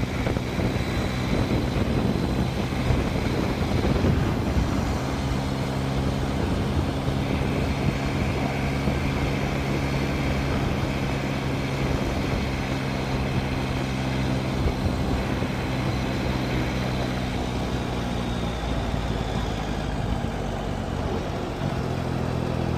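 Yamaha FZ-09's three-cylinder engine running at a steady cruise under the rider. The steady note is unsettled at first and drops away for a few seconds near the end before coming back.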